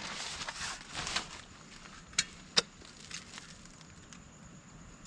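Rustling handling noise for about a second and a half, then two sharp clicks of things being set down or knocked.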